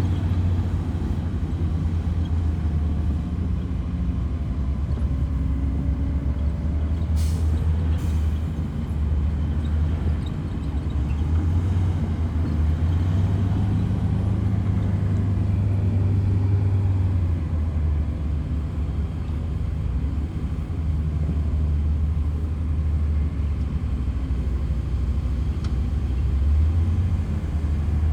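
Heavy diesel earthmoving machinery running steadily, its low engine note shifting slightly in load and pitch, with two brief sharp clicks about seven and eight seconds in.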